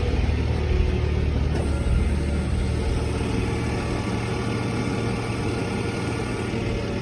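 Rollback tow truck's engine running as the hydraulic bed controls are worked to move the bed. About a second and a half in, the engine note changes and a faint steady whine joins it.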